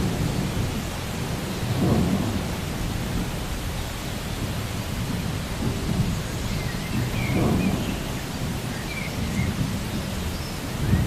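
Steady rain with low rolling thunder that swells up about three times.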